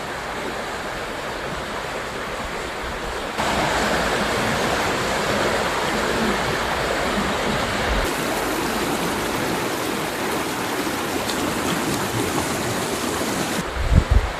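A mountain river rushing steadily over rocks. It gets louder about three seconds in, and a few bumps of wind on the microphone come at the very end.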